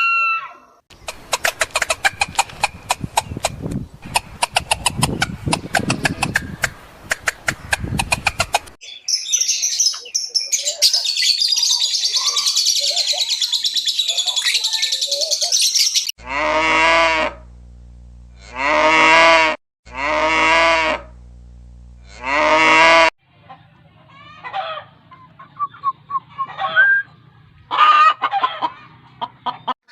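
A string of farm animal calls. First a long run of rapid clucking, then a hissy stretch with faint calls. Then one long call repeated four times in a row, and scattered short chirps and clucks near the end.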